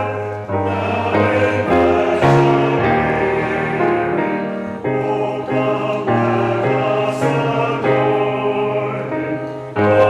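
A hymn sung by many voices in harmony over sustained accompanying chords and a steady bass line, the chords changing about every second.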